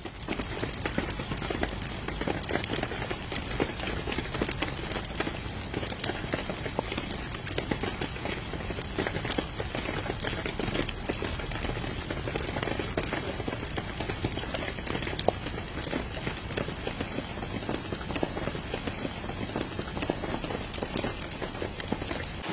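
Steady rain pattering: a dense hiss with many small drop ticks.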